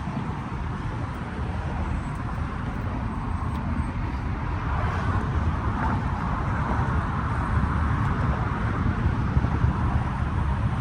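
Steady low rumble of car engines running at idle, with outdoor background noise.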